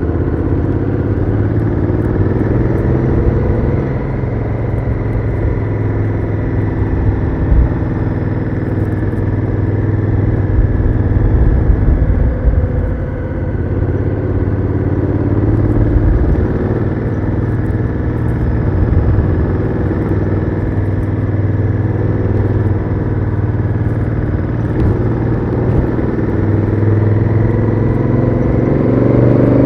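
Honda Africa Twin CRF1000L's parallel-twin engine through its stock exhaust, heard while riding. The engine pitch climbs and drops several times as the throttle opens and closes, with a rising rev near the end.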